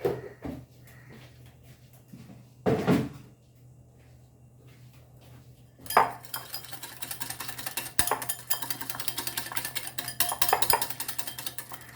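Spoon on a bowl: a few separate knocks, then from about halfway a fast, continuous clatter of the spoon stirring a thick curd-and-spice marinade against the sides of the bowl.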